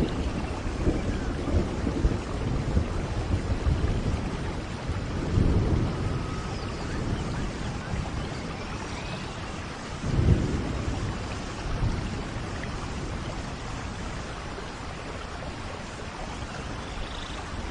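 Thunderstorm in a rainforest: steady rain with deep rolling thunder. One rumble swells about five seconds in, and a stronger one about ten seconds in, before the thunder fades.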